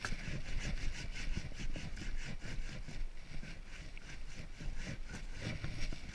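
Steel chisel scraping across wood in quick, repeated rasping strokes, taking bark and a charred surface off a wooden slab.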